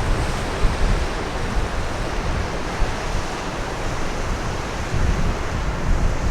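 Strong wind blowing over the microphone: a low, uneven rumble of buffeting under a steady rushing hiss.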